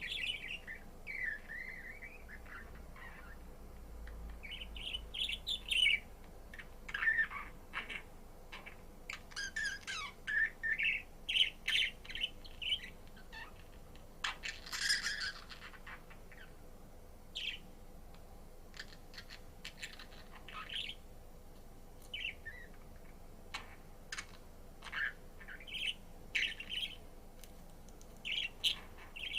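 Budgerigar chirping and warbling in short, scattered bursts, with one harsher, scratchier call about halfway through.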